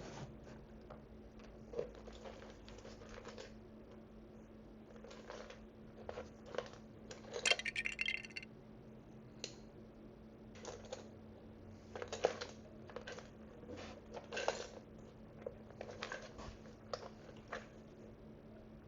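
Tiny miniature food pieces and dishes being picked up, set down and sorted, giving light scattered clicks and taps, with a brighter clinking rattle about seven and a half seconds in.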